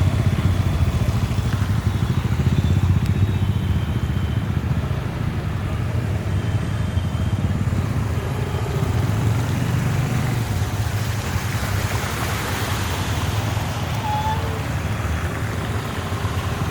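Steady rumble of motor vehicle traffic, engines running, with a louder hiss swelling about twelve seconds in.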